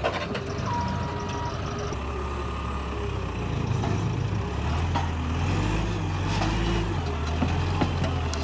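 A vehicle engine running, its pitch rising and falling as it works, with one short high beep about a second in.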